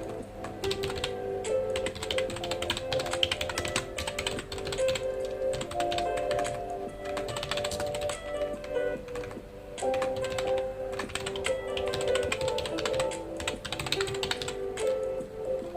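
Computer keyboard typing in quick, continuous runs of keystrokes, over soft background music with held notes.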